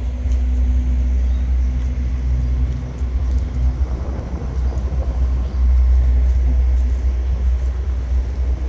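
Heavy, steady low rumble of big-rig semi trucks running, with a faint steady hum that drops out a little before four seconds in.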